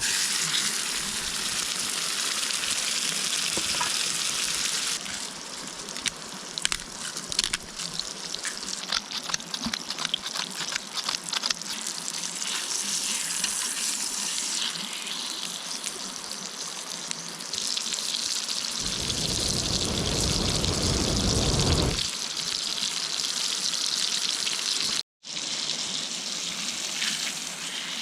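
Food sizzling and frying in a pan over an open campfire, a steady hiss with sharp crackles. There is a low rumble for a few seconds about two-thirds of the way through, and the sound breaks off for an instant near the end.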